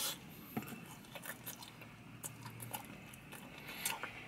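A person chewing a mouthful of chow mein noodles: quiet, irregular wet clicks and smacks of the mouth.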